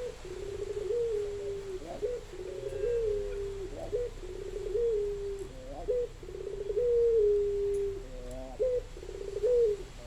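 Puter dove cooing over and over, a low rolling coo repeated about every two seconds, each phrase a drawn-out falling note with a fast trilled part.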